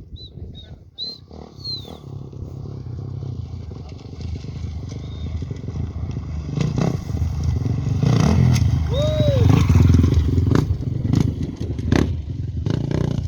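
An off-road race motorcycle approaching, passing at its loudest about eight to ten seconds in, then moving away. Short high whistles near the start.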